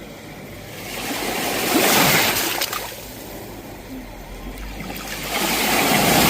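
Sea waves breaking on the shore: one wave rushes in and peaks about two seconds in, then dies back, and a second wave builds and breaks near the end.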